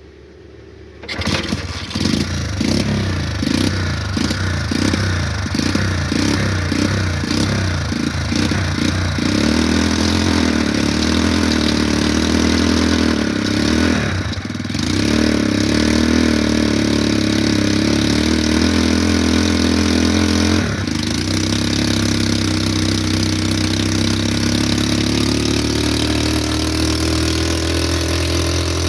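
Old black diesel oil engine running a flour mill, coming in about a second in with slow, even beats about two a second. From about nine seconds in it settles into a steadier, denser running sound.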